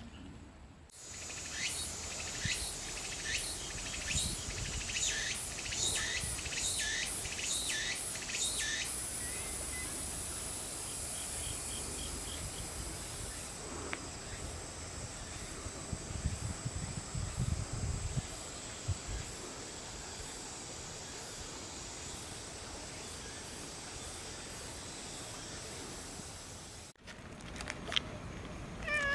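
Insects calling outdoors: a rhythmic series of sharp high chirps, about two a second, then a steady high-pitched buzz. A brief low rumble comes partway through.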